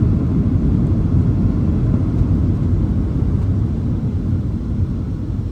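Boeing 737-700 heard from inside the cabin while slowing on the runway after touchdown: a steady low rumble of engines and wheels that gradually gets quieter as the jet decelerates.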